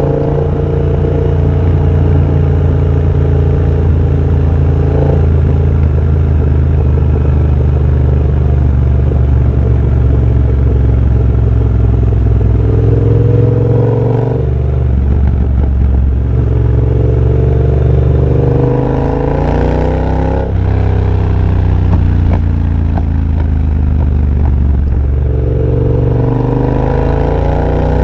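2023 Triumph Bobber's 1200 cc parallel twin through a de-catted TEC X-pipe and Motone Shorty exhaust while riding. The engine holds a steady note for about twelve seconds, then pulls up in pitch and drops at a gear change twice, and climbs again near the end.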